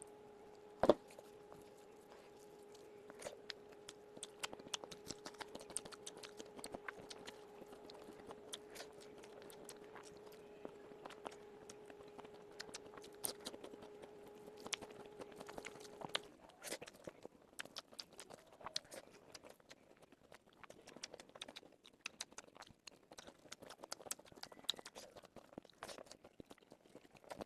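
Close-up eating sounds: chewing and biting into chicken and rice, with many small crunches and clicks and one louder click about a second in. A steady hum runs underneath and stops a little past halfway.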